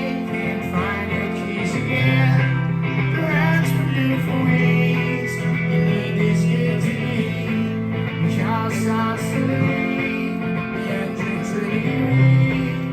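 Live band playing a song: guitar lines over a steady bass and drums with cymbal strokes.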